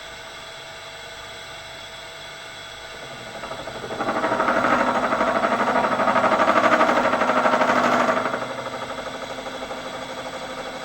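Bridgeport milling machine running, its carbide end mill cutting across the end of a mild steel bar. The cut starts about four seconds in as a loud, rapidly pulsing cutting sound. It lasts about four seconds, then drops back to the machine running lighter.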